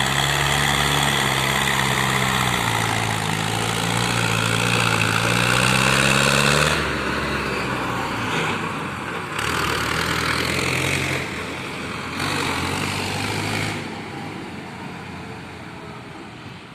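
Farmtrac 60 EPI tractor's diesel engine running under load as it pulls a heavily loaded wood trolley, its pitch rising and falling. The engine sound drops about seven seconds in, returns in spells, then fades away near the end.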